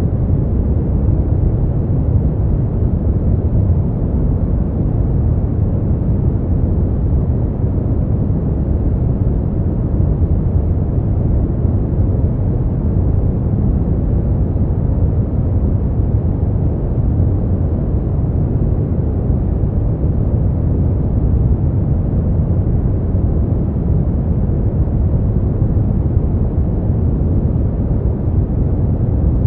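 Brown noise: a steady, unchanging deep rumbling hiss, strongest in the bass and fading out toward the treble.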